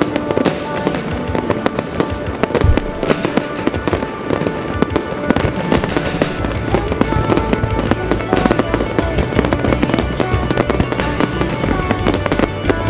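Fireworks going off in quick succession, many bangs and crackles, over loud music. A heavy bass line comes in about three seconds in.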